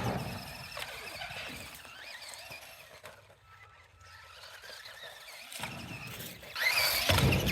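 Small brushed electric motor and drivetrain of a 1/20-scale RC monster truck whining as it drives, with a sharp knock right at the start. The whine gets much louder and climbs in pitch near the end as it speeds up.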